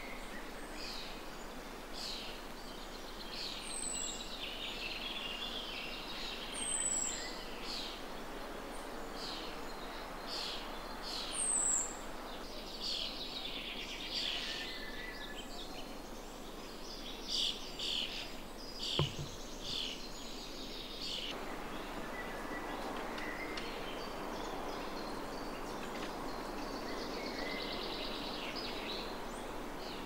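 Woodland birds calling: a busy run of short high chirps, with three thin downward-sweeping whistles in the first half, over a steady background hiss. A single sharp click about two-thirds of the way through.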